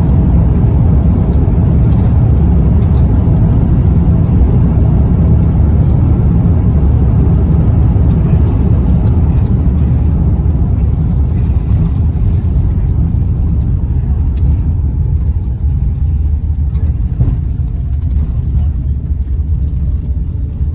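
Loud low rumble inside the cabin of an Airbus A350-900 rolling down the runway after landing, its engines and wheels on the runway. The rumble eases off over the last several seconds as the aircraft slows, with a couple of faint knocks.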